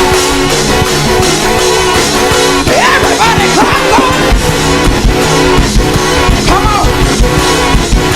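Fast, loud praise-break music from a live band, with guitar, bass and quick drumming. Voices cry out over it in rising and falling calls a few times.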